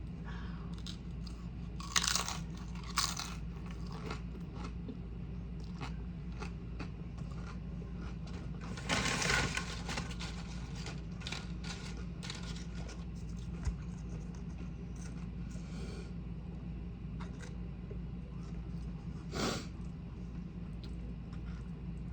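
Close-up eating sounds: crunchy bites and chewing of tortilla chips, with a crunch about two seconds in, another a second later, a longer run of crunching about nine seconds in, and one more near the end, over a steady low hum.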